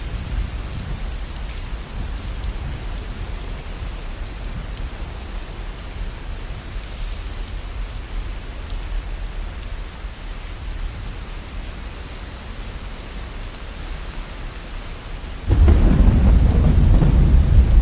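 Heavy rain falling steadily, with low thunder rumbling. About fifteen seconds in, a loud, deep roll of thunder begins suddenly.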